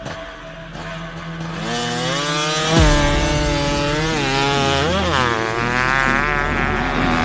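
Motocross bike engine revving, its pitch climbing from about a second and a half in, wavering, then rising again with the throttle. There is a short low thump about three seconds in.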